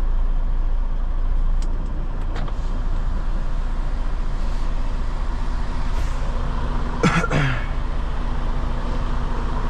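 Semi truck's diesel engine running with a steady low rumble. A brief, sharper sound cuts in about seven seconds in.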